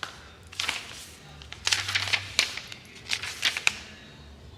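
Cardboard ink boxes and packaging handled on a table: a string of short, sharp rustles and clicks.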